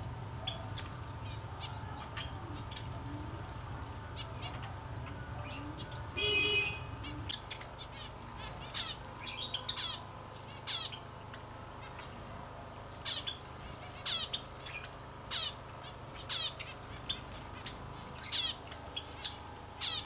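Small aviary birds calling: short, sharp high chirps every second or so, with one harsher squawk about six seconds in.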